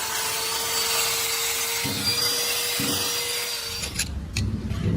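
A power tool abrading metal, a steady rasping hiss over a constant motor tone, which cuts off about four seconds in and is followed by a couple of short clicks.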